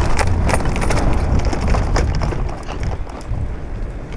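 Wind rumbling on the microphone of a moving e-bike, with scattered clicks and rattles as the bike rides over rough ground. The rumble eases about two and a half seconds in.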